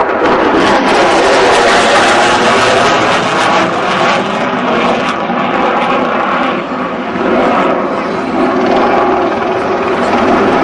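Loud jet noise from a Rockwell B-1B Lancer's four afterburning turbofans as it flies with its wings fully swept back. The noise eases a little about two-thirds of the way through, then builds again.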